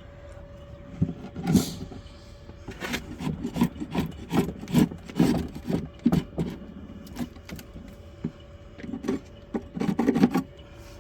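Rough scraping on the wooden parts of a beehive, in short strokes that come about two a second for a few seconds, then pause and return in a quick cluster near the end.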